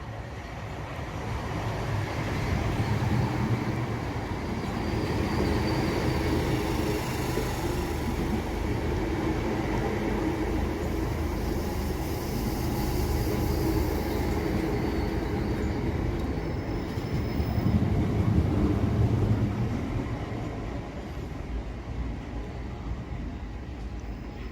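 Southeastern Class 465 Networker electric multiple unit arriving, its wheels rumbling on the rails and its motors humming as it draws into the platform. The sound swells twice and eases off near the end as the train slows.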